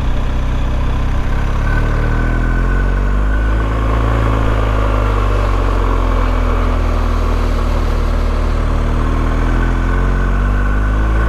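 BMW R1250GS motorcycle's boxer-twin engine running as the bike is ridden, its pitch dipping a few seconds in and rising again with the revs.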